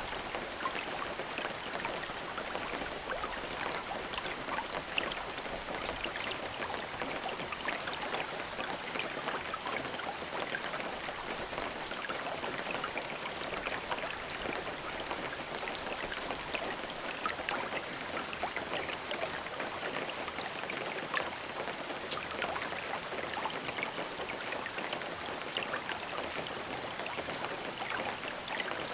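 Steady rain falling, an even hiss with many small distinct drops pattering on a surface and no thunder.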